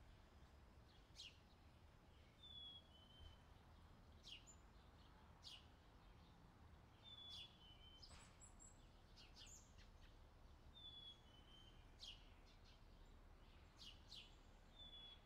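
Near silence with faint bird chirping: a short, high, falling two-part note repeats about every four seconds, with other brief chirps between.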